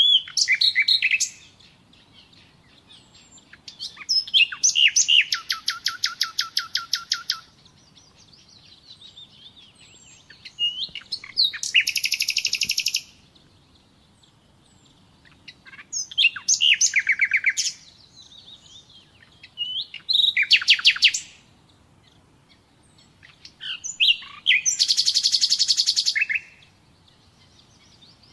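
Nightingale singing in separate phrases a few seconds apart, about six of them, several built of fast runs of the same note repeated many times a second.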